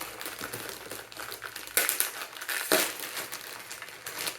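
Plastic packaging bag crinkling as it is handled and opened, with two louder rustles near the middle.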